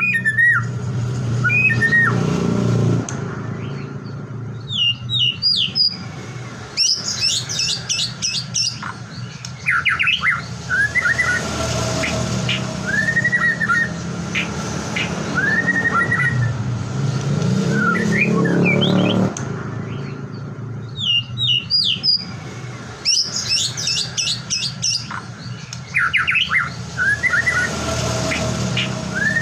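White-rumped shama (murai batu) song: varied clear whistled phrases, upslurred notes and fast chattering runs. The same sequence of phrases repeats about every 16 seconds, as in a looped recording.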